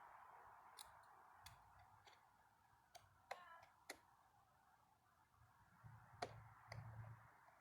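Faint clicks and light taps of small metal parts of a Delco-Remy distributor being handled and fitted back together, about seven sharp clicks scattered through the few seconds, over a faint hiss that fades away early.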